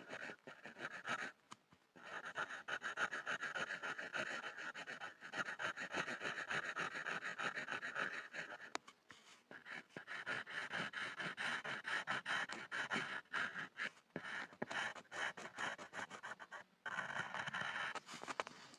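Pencil scribbling on a board: quick scratching strokes in long runs, broken by short pauses about two seconds in, around nine seconds and near the end.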